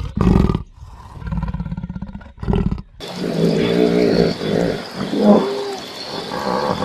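A large animal's deep roar and a run of rhythmic grunts. About three seconds in, it cuts abruptly to a different animal's higher, pitched calls.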